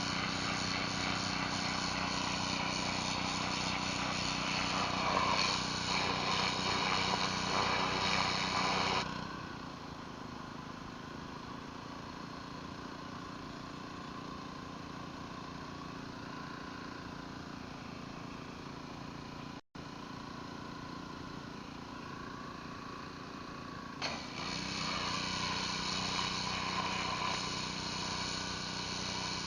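Pressure washer engine running steadily under the hiss of a surface cleaner spraying concrete. About nine seconds in the spray cuts off and the engine runs on alone. About twenty-four seconds in the spray starts again.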